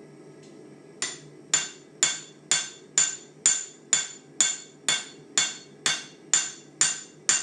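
Forging hammer striking steel on an anvil, about two blows a second, each with a bright metallic ring, over a steady low background noise. The rhythmic blows start about a second in.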